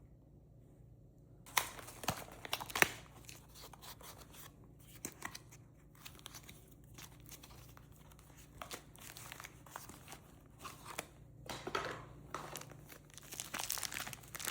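Product packaging being handled and opened, crinkling. There are a few sharp clicks about a second and a half in, and the crinkling grows louder near the end.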